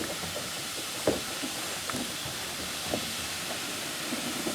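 Steam locomotive standing with a steady hiss of escaping steam, with a couple of light knocks about a second in and again near three seconds.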